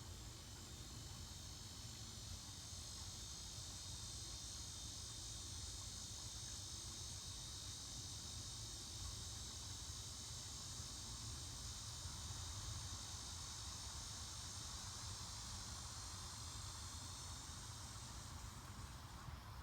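Faint, steady high-pitched chorus of insects such as crickets, cutting off suddenly near the end.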